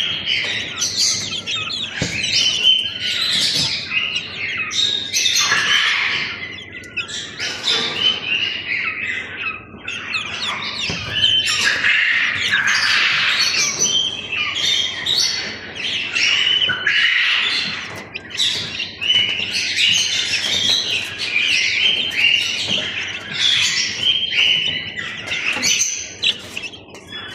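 Chicken chicks peeping continuously, a dense run of high, short chirps overlapping one another.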